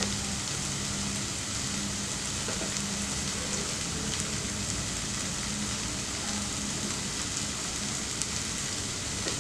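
Steady sizzle of chicken keema stuffing frying in a pan on low flame, with a low steady hum beneath it. A few faint soft taps come from dough balls being pressed flat on a floured counter.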